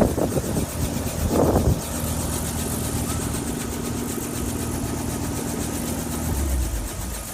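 An engine running steadily, with two short loud bursts in the first two seconds and a low rumble swelling briefly near the end.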